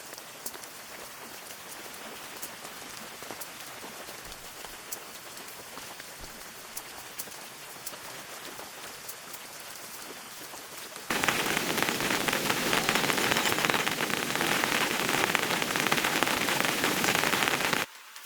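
Rain falling steadily, with scattered single drops tapping. About eleven seconds in it switches abruptly to much louder, denser heavy rain, which cuts off suddenly shortly before the end.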